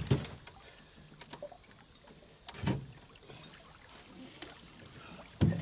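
Irregular light knocks and clicks aboard a fishing boat, with a few louder thumps: one right at the start, one near the middle and one near the end.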